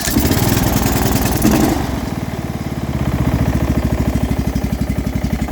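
Small lawn-mower engine running just after starting, harder for about the first two seconds, then settling into a steady, even pulsing idle. A low-end rattle is in it, which the owner doesn't think necessarily sounds like a knock.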